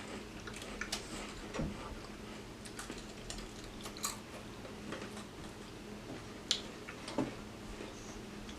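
People chewing crunchy cheese crackers: scattered, irregular crisp crunches and clicks over a faint steady hum.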